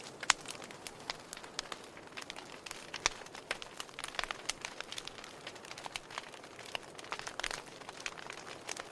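Wood fire burning in a fireplace, crackling with irregular small pops over a soft hiss, two of them louder, one right at the start and one about three seconds in.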